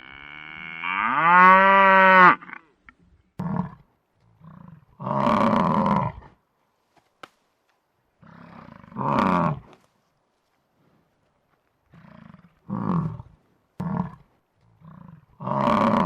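A buffalo's long moo that rises in pitch and then holds, followed by a series of short, rough grunting calls at irregular gaps.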